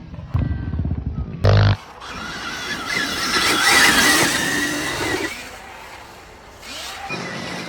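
Dirt bike engines revving, with a short loud burst about a second and a half in, then a few seconds of dense rushing noise before an engine is heard again near the end.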